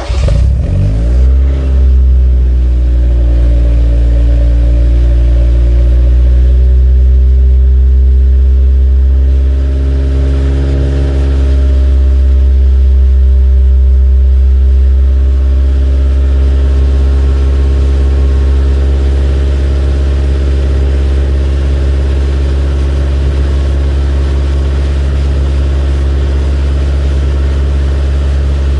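Toyota AE86 exhaust through an HKS Legal muffler routed over the differential, idling just after a start. The revs flare briefly in the first couple of seconds, then settle into a steady idle.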